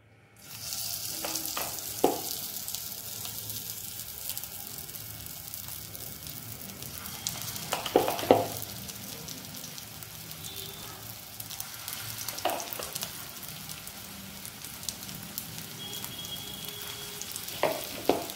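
Beetroot kebab patties sizzling steadily as they shallow-fry in hot mustard oil in a non-stick pan. The sizzle starts about half a second in, and a few soft thumps come in between as more patties go into the pan.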